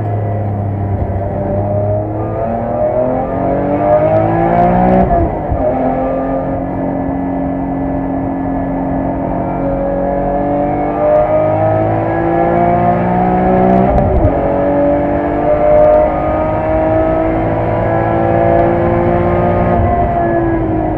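BMW E46 M3's S54 straight-six engine heard from inside the cabin, pulling hard up through the revs, with two upshifts about five seconds and fourteen seconds in where the pitch drops sharply before climbing again, and the revs falling near the end.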